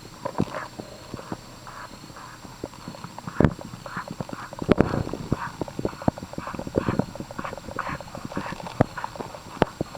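Small puppy in a paroxysmal breathing episode, drawing rapid, noisy breaths about twice a second. The owner takes it for a reverse sneeze but suspects it could be a cough. Sharp clicks and knocks are scattered through it.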